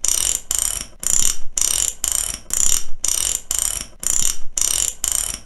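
Mechanic's ratchet wrench clicking in repeated bursts of fast pawl clicks, about two bursts a second with short pauses between, as the handle is swung back and forth.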